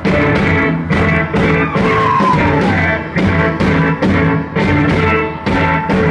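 Live rock band playing an instrumental passage, with drums keeping a steady, even beat under electric guitar. About two seconds in, a high note slides downward.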